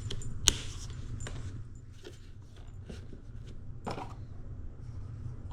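Handling noise from the plastic coffee machine being turned over and its parts moved: one sharp click about half a second in, then a few softer knocks and rubs.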